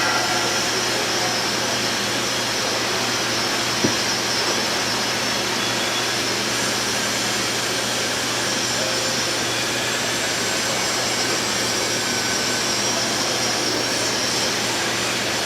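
A steady, loud mechanical roar with a faint low hum running under it, and a single short knock about four seconds in.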